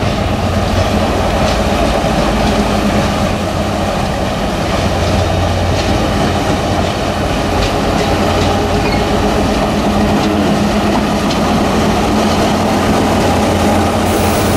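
A train running close by: a steady low engine hum with a noisy rumble and scattered sharp clicks from the wheels on the track.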